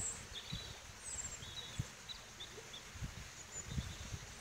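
Birds singing in a dawn chorus: scattered short, high chirps and trills, over irregular low thumps and rumble.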